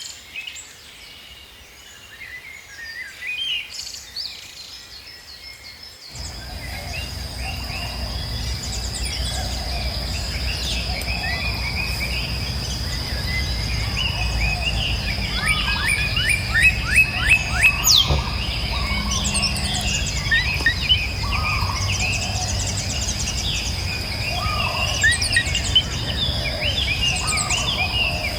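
Several tropical forest birds calling with chirps, whistles and a fast run of repeated rising notes. From about six seconds in they sound over a steady high-pitched insect drone and a low rumble.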